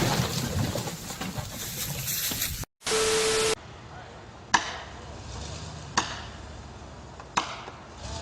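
Crashing noise of a falling tree dying away, broken off by a short steady beep. Then, in another clip, three sharp knocks about a second and a half apart, like chopping wood.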